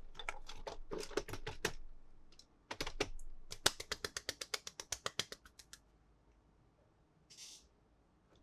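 Toy pieces being handled, making rapid small clicks. A first run of clicks is followed about three seconds in by a faster, even run of ticks that dies away, then a brief soft rustle near the end.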